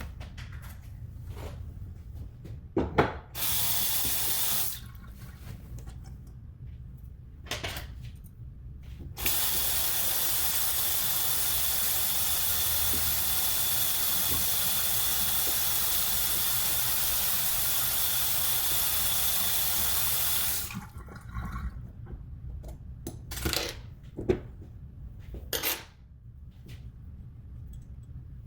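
Faucet running into a sink: a short burst of water, then about eleven seconds of steady running water that cuts off sharply. Clicks and knocks of handling come before and after.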